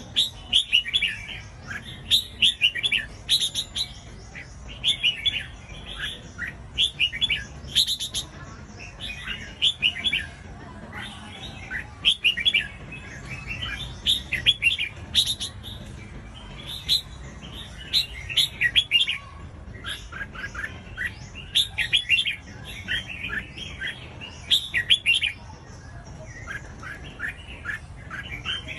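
Red-whiskered bulbul singing: short, quick phrases of whistled notes, one after another every second or so.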